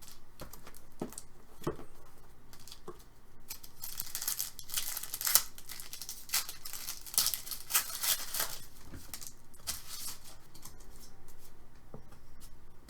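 Wrapping being torn open and crinkled while a trading card box is unpacked, with a few light clicks of handling first and several seconds of rustling and tearing in the middle.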